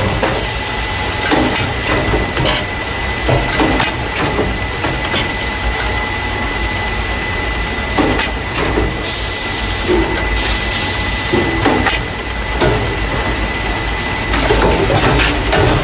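A carton caser, the packing-line machine that loads paper juice and milk cartons into plastic crates, is running. It makes a steady hum with a constant high tone and frequent clacks and knocks from its moving parts. A hiss lasts about two seconds a little past the middle.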